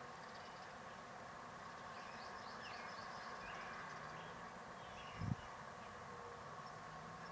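Faint outdoor ambience with a steady background hum and a few faint, high bird chirps. A single short low thump about five seconds in.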